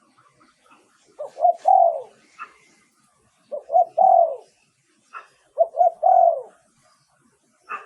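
Spotted dove cooing: three phrases about two seconds apart, each two short coos followed by a longer coo that falls in pitch.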